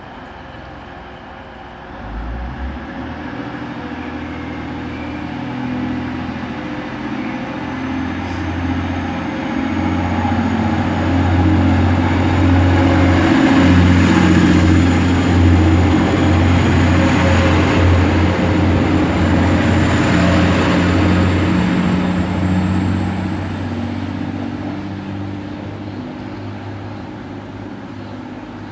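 TransPennine Express Class 185 diesel multiple unit working through the station, its underfloor diesel engines running hard with a deep note that steps up and down. A high whine slowly rises in pitch as the train gathers speed. The sound builds to its loudest about halfway through, then fades as the train draws away.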